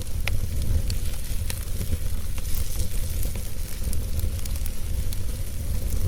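Wood fire crackling, with scattered sharp pops over a steady low rumble; one of the clearer pops comes about a quarter of a second in.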